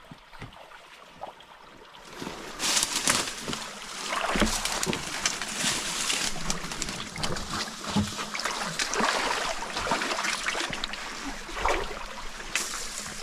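Water splashing and sloshing in a shallow stream, setting in about two and a half seconds in and continuing with many small splashes.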